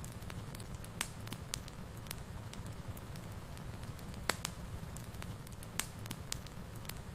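Wood fire burning in a fireplace: a steady low rumble of flames with sharp, scattered crackles and pops from the burning logs, a handful of them spread irregularly.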